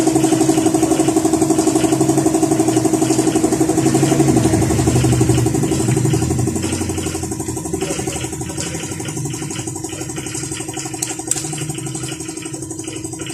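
An engine idling steadily with a fast even beat, dropping in loudness after about five seconds, with a faint click near the end.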